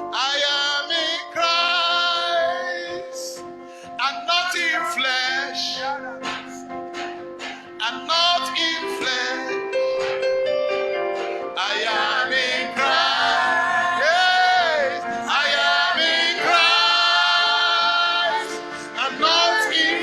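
Gospel worship music: voices singing with vibrato over sustained keyboard chords.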